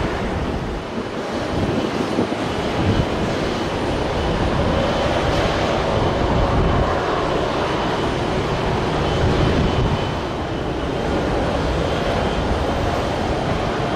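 Jet aircraft noise at an airport, a steady rush with faint whining tones, under wind buffeting the microphone in uneven gusts.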